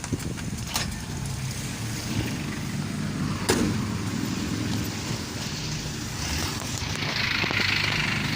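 Motor vehicle engine running steadily with a low rumble, a sharp knock about three and a half seconds in, and a hiss near the end.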